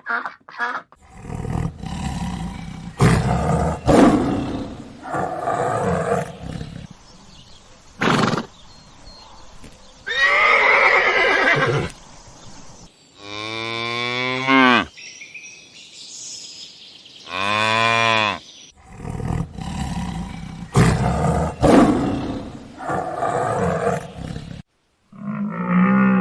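A run of separate animal calls, one after another with short gaps, varying in pitch and length, some with a rising-then-falling pitch.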